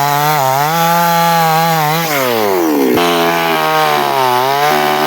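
Chainsaw engine running at high revs. Its pitch sags and falls away about two seconds in, jumps back up about a second later, then holds fairly steady with small dips.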